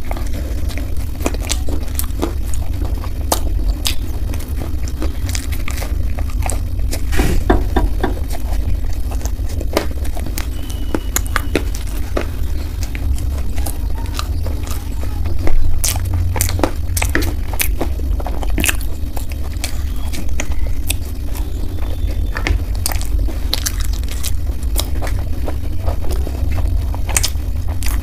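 Close-miked chewing of fried momos: many short wet clicks, crunches and mouth smacks, irregular and unbroken, over a steady low hum.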